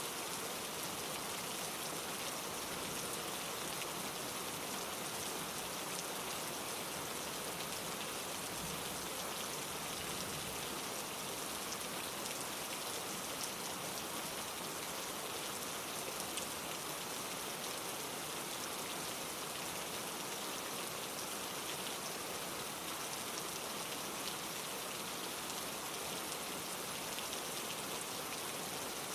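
Steady rain falling, a dense patter of small drops over an even hiss.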